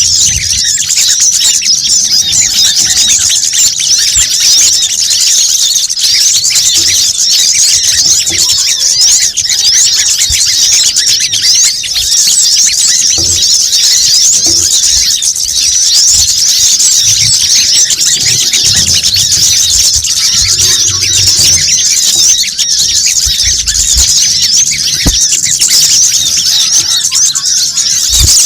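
Bird-lure recording (suara pikat): a loud, unbroken chorus of rapid high-pitched chirps and twitters from many small birds, played to draw in sunbirds such as the brown-throated sunbird (kolibri kelapa).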